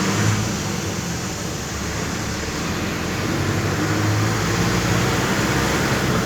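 A bus engine running steadily with road noise as the bus drives along, heard from on board; the engine hum grows a little louder midway.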